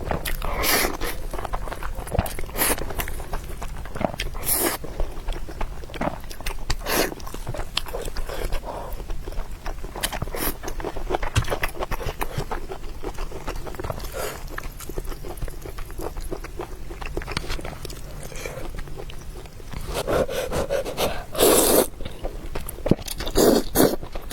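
Close-miked eating: irregular chewing and biting mouth sounds on spicy stir-fried food, growing louder about twenty seconds in.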